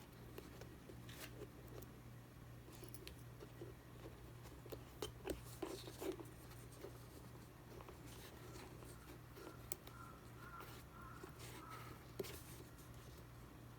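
Faint, scattered small ticks and rustles of hands working on the small parts of a shoe's dial lacing system, over a steady low hum.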